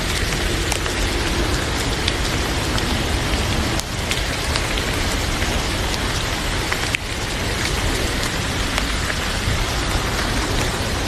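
Heavy rain falling hard, a dense steady hiss with scattered small sharp ticks; the level drops briefly twice, about four and seven seconds in.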